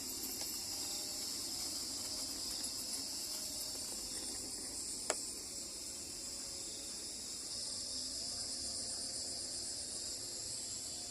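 Steady chorus of crickets and other night insects trilling high-pitched, with one sharp click about five seconds in.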